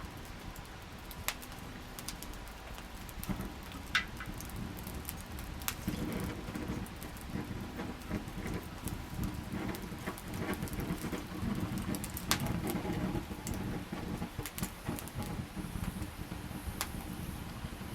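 Wood campfire burning, with scattered sharp crackles and pops over a low rush of flame that swells in the middle.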